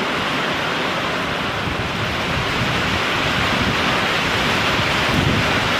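Heavy rain and strong wind of a severe thunderstorm, a steady loud noise, with gusts buffeting the microphone in a low rumble.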